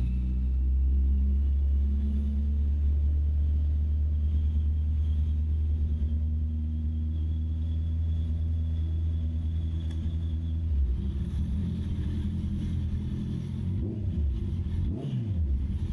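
Honda CB650R's inline-four engine running at steady revs while riding, then the note changes about eleven seconds in, and near the end the revs drop sharply and climb again.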